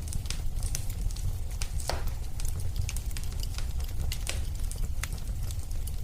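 Fireplace fire crackling, with irregular small pops over a steady low rumble and one louder pop about two seconds in.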